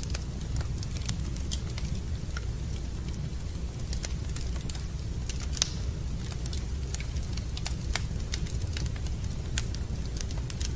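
Wood fire burning in a fireplace, crackling with irregular sharp pops and snaps over a steady low rumble; one pop a little past halfway stands out louder than the rest.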